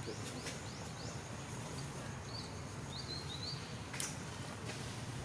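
A small bird chirping: short high rising chirps in quick runs, one near the start and another past the middle, over steady outdoor background noise. A single sharp click comes about four seconds in.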